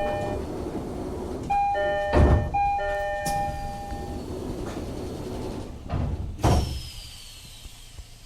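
Train door chime sounding in three runs of steady electronic tones, with the sliding doors closing and thudding shut about two seconds in and again, louder, about six and a half seconds in; a falling whine follows the last thud.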